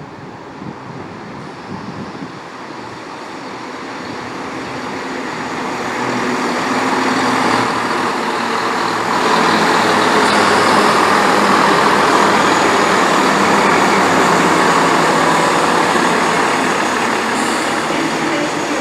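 Diesel multiple-unit passenger train pulling into the platform. Its engine and wheel noise grow steadily louder over several seconds, then stay loud with a slight easing near the end.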